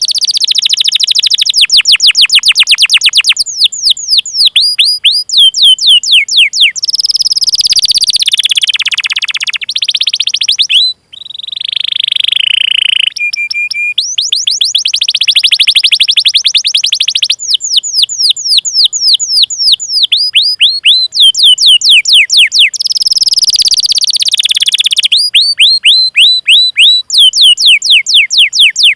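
Canary singing a long song: fast trills of repeated high notes, each sweeping down in pitch, changing speed from phrase to phrase. A brief break about 11 seconds in is followed by a lower, smoother rolling phrase before the quick trills return.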